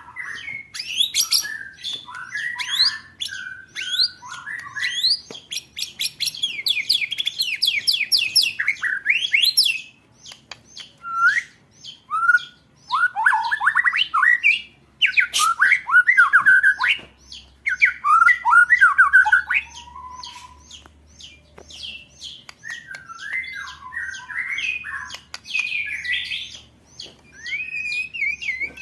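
Caged songbird singing fast rolling trills and rapid-fire chattering phrases, the 'roll tembakan' song used to train and provoke competition birds. Runs of quick repeated notes rise and fall in pitch, with short pauses between bursts.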